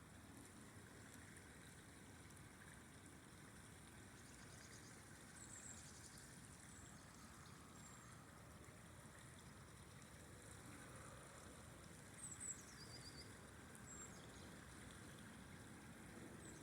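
Faint, steady rush of a flowing river. A few short, high chirps come through, about five seconds in and again around twelve to fourteen seconds.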